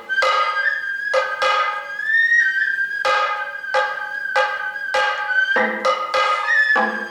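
Sato kagura hayashi music: a bamboo flute holding a high, wavering note while a drum is struck in an uneven beat of one or two strokes a second.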